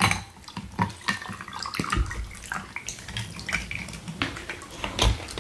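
Close-miked wet mouth sounds: irregular chewing and lip-smacking clicks, with a couple of low thumps, about two seconds in and near the end.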